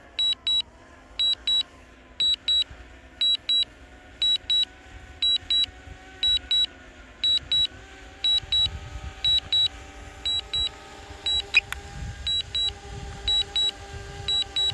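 Sharp high beeps in pairs, about once a second, from the drone's remote controller during automatic return-to-home landing. Under them runs the steady propeller whine of a DJI Mavic Air quadcopter hovering and descending close by.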